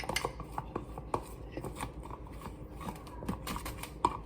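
Irregular light clicks and taps of objects being handled in a kitchen, with a sharper knock near the end.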